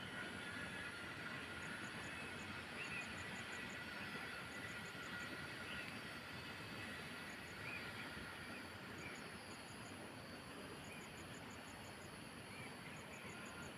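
Faint outdoor ambience: a steady hiss with repeated short runs of high-pitched ticks and a few faint chirps.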